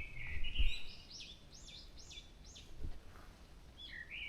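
Songbird singing at dawn: a run of quick, repeated looping whistled notes, about two to three a second, pausing, then starting again near the end. A few low bumps sound underneath.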